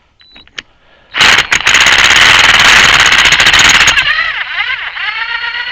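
Impact wrench hammering hard and fast for about three seconds, starting about a second in, on a stuck fastener of a backhoe hydraulic ram. It then runs on with a whine that rises and falls in pitch.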